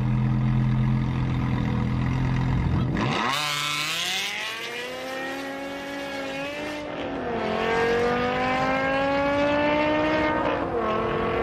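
Drag racing car's engine held at steady revs on the start line, then about three seconds in it launches hard. The engine note climbs steadily with an upshift around seven seconds and another near the end as it accelerates down the strip.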